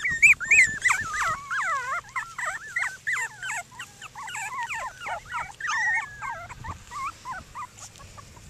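Several cockapoo puppies whining and whimpering at once in high, wavering cries, loudest in the first couple of seconds and thinning out toward the end.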